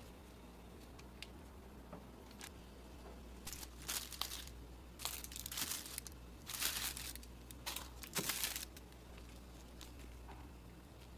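Several short bursts of crinkling and rustling, clustered in the middle, over faint room hum.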